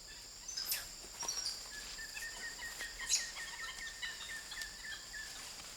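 Rainforest ambience: a steady high insect drone, with a rapid run of small chirping calls, about five a second, through the middle and a few short, sharp high calls.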